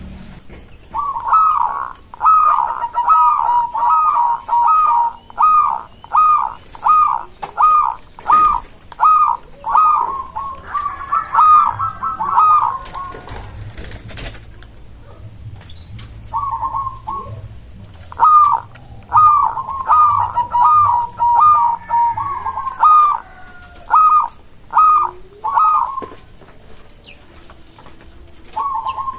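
Zebra dove (perkutut) cooing: long strings of short, clipped coos at an even pace, in two long bouts with a short pause between them and a brief phrase near the end.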